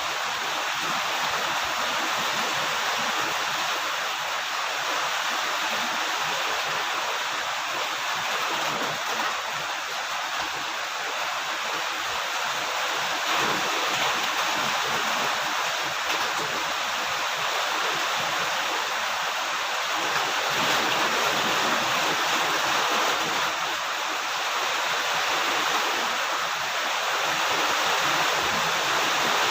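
Steady rain falling, a dense even hiss with no pauses.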